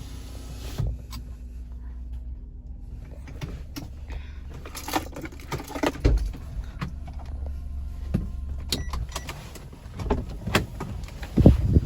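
A car's engine runs with a steady low hum, under scattered clicks, knocks and rustling as things are handled in and around the car. The hum weakens about eight seconds in, and a few louder thumps come near the end.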